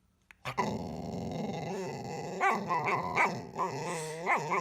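A dog growling and grumbling in one long, wavering vocalization that rises and falls in pitch, starting about half a second in.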